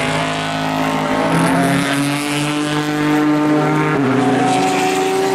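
Race car engine under acceleration, its note climbing slowly, then dropping and climbing again about four seconds in as it shifts up a gear.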